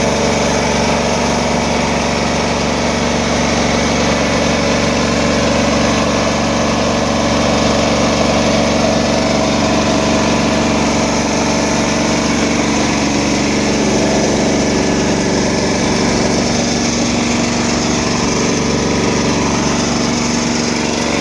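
Hydramaster Boxxer 421 carpet-cleaning truck mount running steadily: a constant, unchanging engine hum layered with a strong even hiss.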